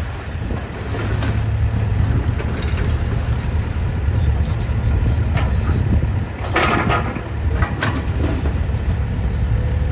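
Sany SY60C Pro mini excavator's diesel engine running steadily, with two brief sharp noises about two-thirds of the way through.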